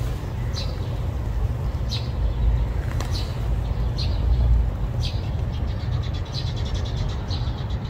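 Small birds chirping, short high calls about once a second that turn into a quick run of chirps near the end, over a steady low outdoor rumble.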